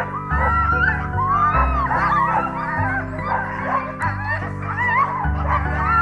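A pack of sled dogs yelping and whining together, many wavering calls overlapping, with background music underneath.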